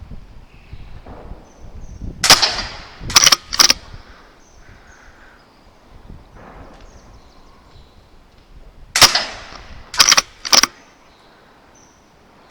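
Two shots from a BSA Super 10 .22 PCP air rifle about seven seconds apart, each with a short echo in the shed and followed within a second and a half by two sharp clicks, the rifle's bolt being cycled to chamber the next pellet.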